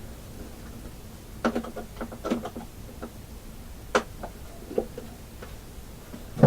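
Hand work on small parts and tools: a quick run of light taps and clicks, then a few single clicks, and a sharper knock at the end.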